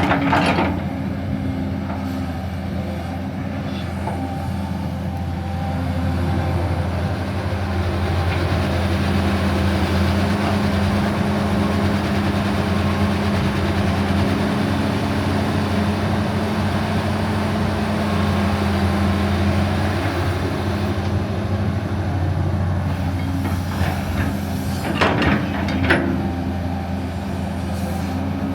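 Machine engine running steadily, its hum growing a little louder a few seconds in, with a couple of sharp knocks near the end.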